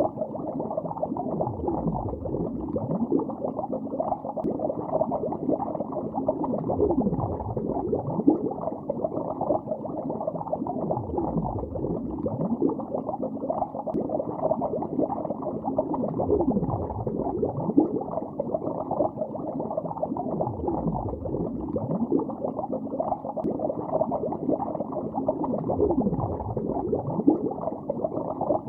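Underwater bubbling in lake water: a dense, steady stream of bubbles heard from below the surface, muffled and low-toned, with many brief gliding bubble tones running through it.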